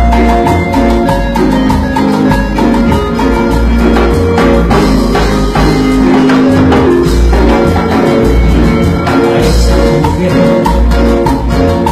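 Cumbia music played by a band, with a steady, repeating bass beat under a busy melody line.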